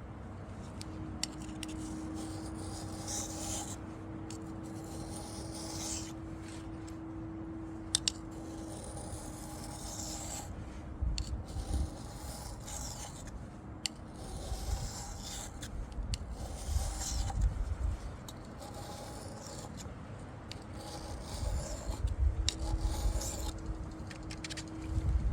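Steel knife blade being drawn in long strokes across a wet Wästikivi sharpening stone, a rasping scrape that swells and fades about once every two seconds. Bursts of low rumble come and go, most of all near the end.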